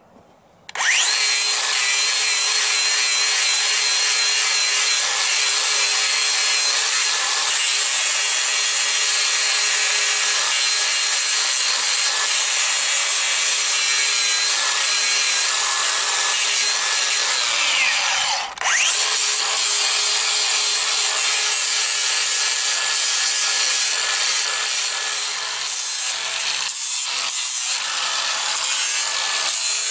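Power grinder grinding down a horse's hoof, starting up about a second in and running with a steady high whine. Just past halfway the whine falls and the grinder cuts out for a moment before picking straight up again.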